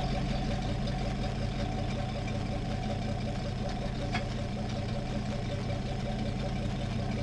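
Jeep Grand Cherokee rally car's engine idling steadily while the car stands at the stage start, heard from inside the cabin. A single short click about four seconds in.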